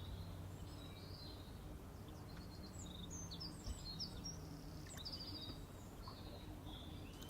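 Faint birds chirping, a quick scatter of short high chirps that is busiest in the middle, over a steady low hum.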